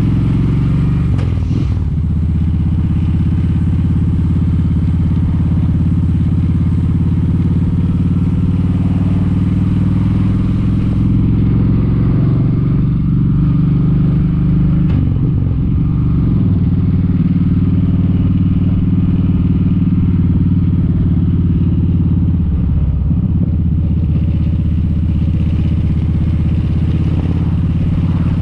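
Kawasaki Vulcan 1700 Vaquero's V-twin engine running steadily with the bike under way, its pitch dipping briefly a few times.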